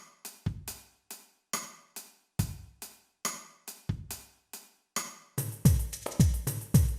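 Boss DR-01S Rhythm Partner drum machine playing a sparse acoustic-percussion preset rhythm: dry, sharp hand-percussion hits with a low drum thump about every second and a half. About five seconds in it changes to a busier, louder groove with deep, booming low drum hits.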